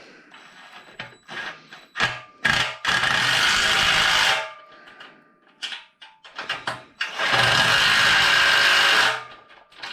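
Power driver (the "gun") run twice, about a second and a half and then two seconds, tightening down fasteners on the frame, with short knocks and clicks of handling in between.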